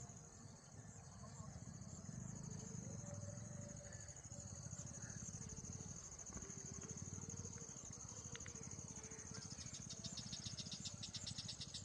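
Faint evening insect chorus: a steady high-pitched buzz, joined about nine and a half seconds in by a rapid pulsed trill, over a faint low rumble.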